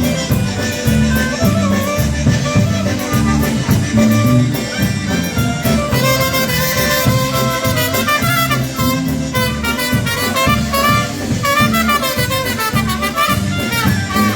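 Live polka band playing an instrumental passage of a Polish-language polka, with horns carrying the tune over a steady beat.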